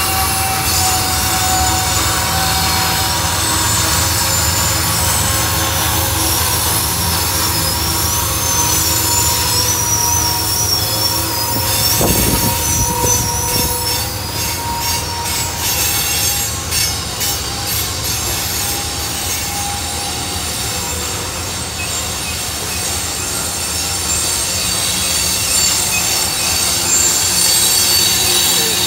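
Freight cars rolling downgrade around a sharp curve, their wheel flanges squealing against the rail in high steady and wavering tones over a continuous low rumble. Clusters of clicks from the wheels on the track come through about halfway in.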